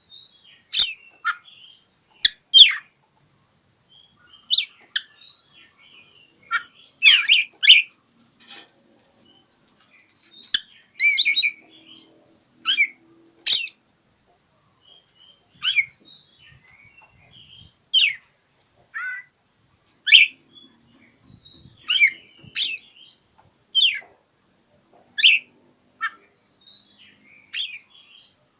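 Oriental magpie-robin singing: short, sharp, loud phrases every second or two, separated by brief pauses, with softer chattering notes in between.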